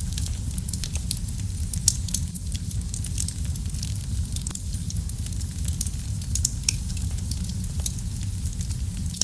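Wood fire crackling in a fireplace: frequent small sharp pops and snaps over a steady low rumble, with one louder pop about two seconds in.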